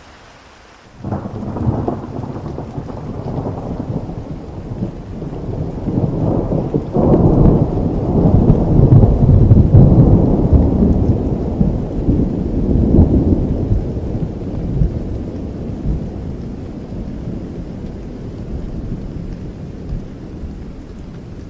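A long roll of thunder over steady rain. It breaks in suddenly about a second in, rumbles and builds to its loudest around the middle, then slowly fades back toward the rain.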